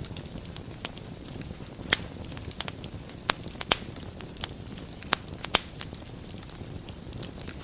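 Fire burning in a fireplace: a steady low rush with irregular sharp crackles and pops, several louder pops bunched in the middle.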